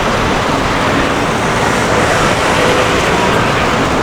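Steady city street noise, mainly road traffic, an even wash of sound with no single event standing out.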